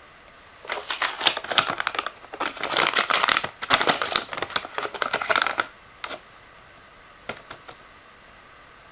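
Crinkling, scraping handling noise made of a dense run of small clicks and rustles for about five seconds, then a few scattered clicks near the end.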